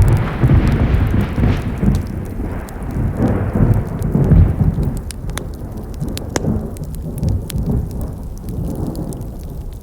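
A loud low rumble that starts suddenly and slowly dies away over about ten seconds, over the campfire's wood crackling with sharp pops throughout.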